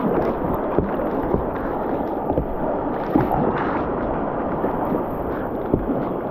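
Whitewater rushing and splashing around a kayak running a rapid, with short sharp splashes or paddle knocks every second or so.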